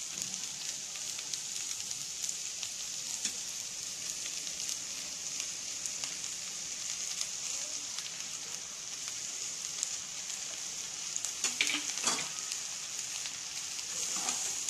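Chicken, egg and cabbage stir-fry sizzling on high heat in a nonstick pan, a steady frying hiss, with a few light knocks near the end.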